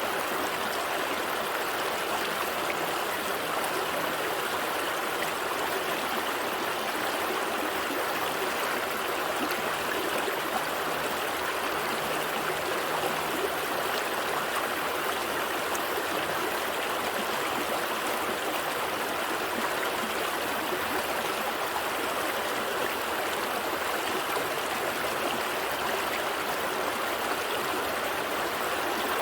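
Small stream flowing steadily over rocks, an even babble of running water.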